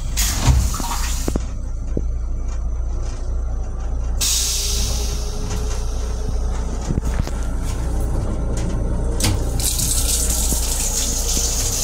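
Steady low rumble of a Metro-North M7 electric railcar running, heard inside its small restroom. A brief hissing rush comes about four seconds in, and a louder, longer hissing rush starts near the end.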